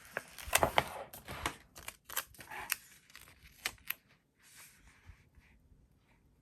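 Paper and plastic sticker sheets being handled: a quick run of sharp clicks, taps and short rustles over the first four seconds, then only faint, scattered handling.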